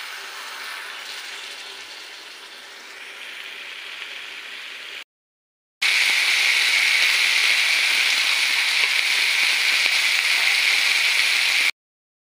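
Food sizzling in a pan as the fish chorchori cooks. It stops at a sudden cut to silence about five seconds in, then comes back as a louder, steady sizzling hiss for about six seconds before cutting off again.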